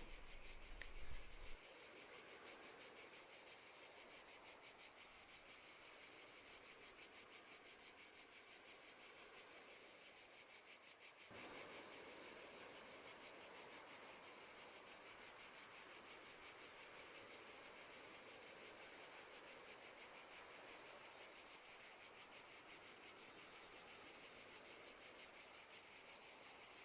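Crickets chirping in a steady, rapid pulsing trill, faint.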